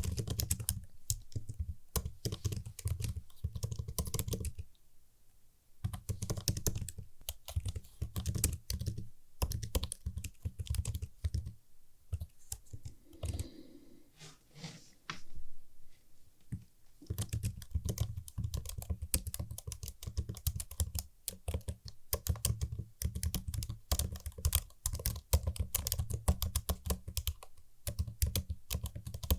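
Typing on a computer keyboard: fast, crisp key clicks in dense runs. There is a short pause about five seconds in, and a slower, sparser stretch around the middle before the fast typing picks up again.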